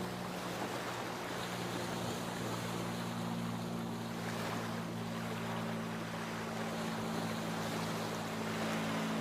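Sea waves washing and surging in a steady rush, with a steady low hum under them throughout.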